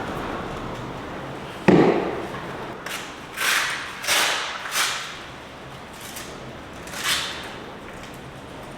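Gusting wind noise, then a single heavy thud about two seconds in, followed by several short swishing rustles.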